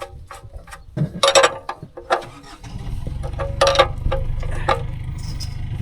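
Metal clinks and knocks of tools and parts being handled, with a low, pulsing engine rumble coming in about halfway through and holding steady.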